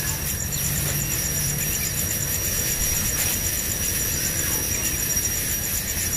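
Hungry nestlings begging with continuous high-pitched squealing calls.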